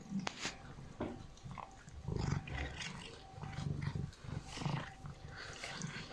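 Domestic cat eating parizer sausage: chewing and smacking clicks, with several short low-pitched sounds from the cat about two, four and nearly six seconds in.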